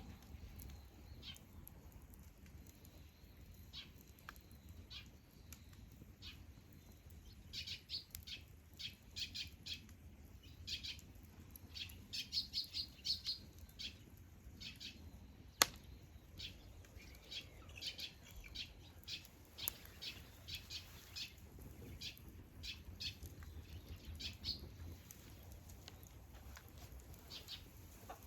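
Wood fire crackling: irregular small snaps and pops, thickest through the middle, with one sharp pop about halfway through, over a faint low rumble.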